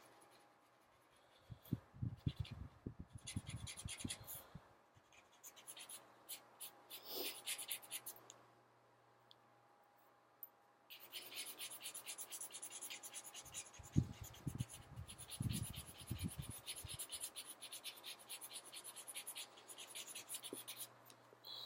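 Colouring on paper: runs of quick, scratchy strokes from a colouring tool, with a short pause about halfway through and a few dull knocks against the paper or table.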